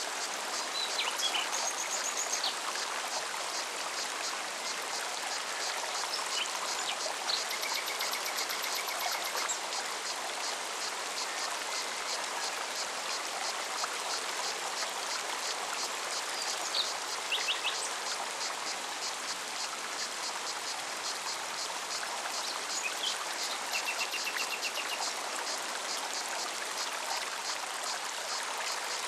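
Mountain stream running steadily over rocks, with a cicada's fast, even pulsing high above it. Short bird calls come in now and then.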